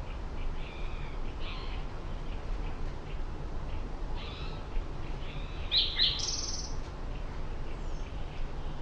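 Wild birds calling in short chirping phrases, with a louder pair of notes about six seconds in, over a steady low background rumble.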